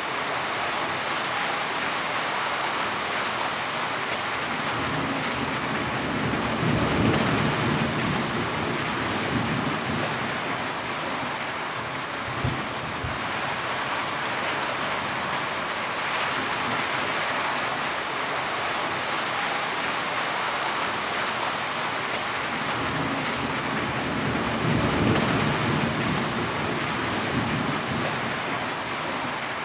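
Steady heavy rainfall pattering down. A low rumble swells and fades twice, about a quarter of the way in and again near the end.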